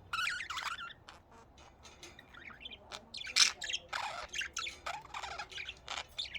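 Budgies chattering and squawking in short bursts of high chirps, busier in the second half.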